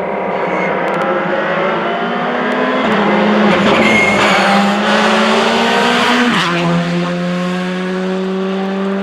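Rally car accelerating hard, its engine pitch climbing and then dropping sharply at a gear change about six seconds in before climbing again. There is more tyre and road noise in the middle as the car comes closest.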